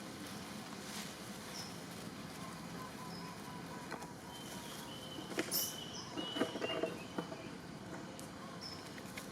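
Short, high animal chirps and squeaks now and then, with a cluster of small clicks and rustling knocks in the middle.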